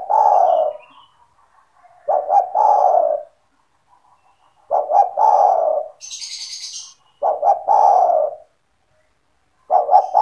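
Spotted dove (tekukur) cooing its song over and over, about every two and a half seconds: each phrase is a couple of short quick notes followed by a longer coo. A brief higher, noisy rustle comes between phrases about six seconds in.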